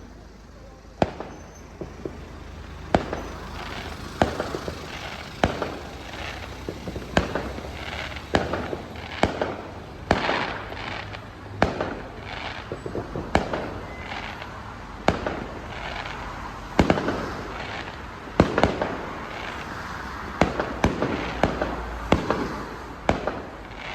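Fireworks going off one after another: sharp bangs at irregular intervals, roughly every second, with no let-up.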